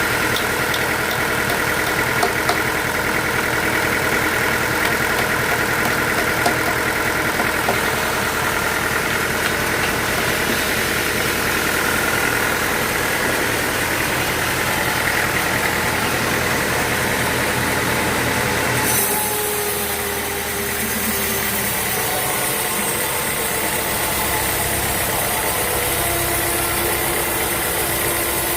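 Sawmill machinery running steadily with a continuous engine-like hum made of several steady tones. Its character changes abruptly about two-thirds of the way through.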